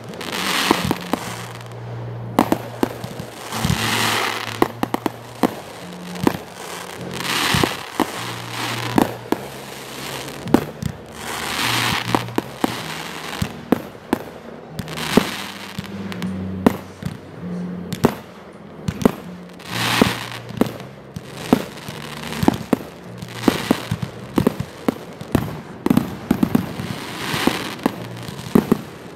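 Fireworks going off: a rapid, irregular string of sharp bangs from aerial shells bursting, with a swell of crackling hiss every few seconds.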